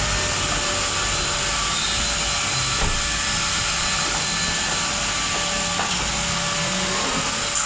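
Pressure washer running steadily, its water jet hissing as it sprays the engine bay.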